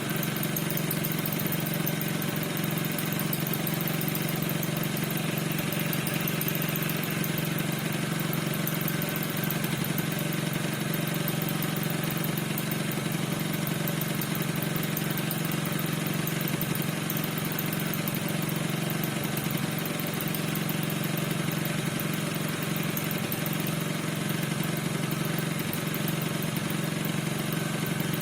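Piaggio NRG 50 scooter's 50 cc two-stroke engine idling steadily. The owner reports that it squeaks and does not know the cause.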